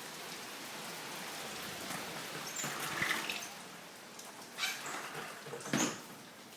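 Steady rain and wind noise through an open window, with window blinds blown by the gusts clattering three times, about three, four and a half and six seconds in.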